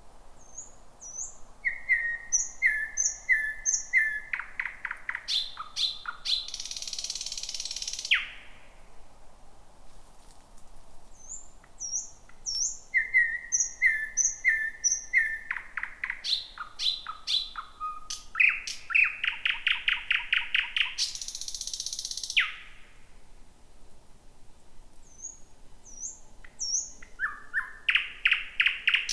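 Thrush nightingale singing: three loud song phrases a few seconds apart. Each opens with a string of repeated piping notes, then speeds into fast dry clicks and a harsh rattling trill. The last phrase starts near the end.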